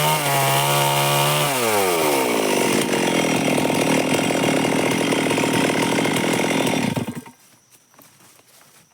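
Stihl MS 382 two-stroke chainsaw held at high revs, then dropping back to a lower, steady running speed; about seven seconds in the engine stops abruptly, switched off.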